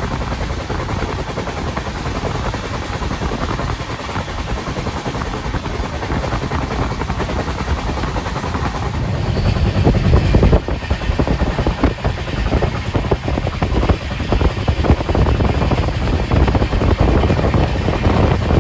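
Train running at speed, heard from on board: steady rushing noise of wind and wheels on the rails, with wind buffeting the microphone. About halfway through it grows louder, with many sharp clacks.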